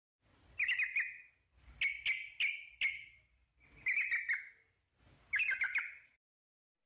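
A bird chirping in short bursts of quick, sharp chirps, four or five times, with quiet between them.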